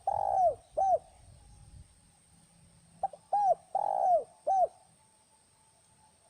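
Spotted dove cooing: two phrases of several arching coo notes each, the second phrase starting about three seconds in.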